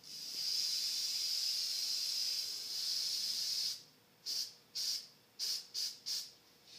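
Aerosol spray-paint can spraying: one long continuous hiss of almost four seconds, then five short bursts in quick succession.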